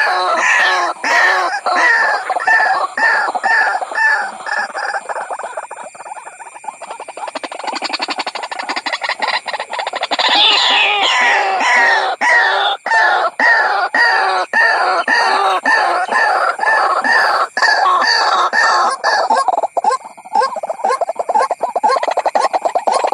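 White-breasted waterhen calling: a loud, rapidly repeated croaking note, several a second, used as a lure call for the bird, with sharp clicks scattered through.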